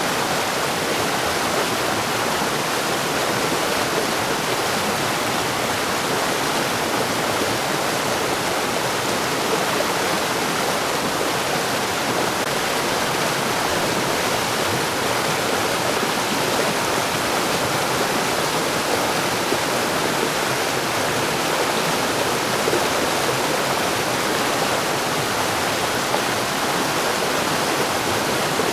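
Mountain stream rushing steadily over rocks, a continuous even splashing with no pauses.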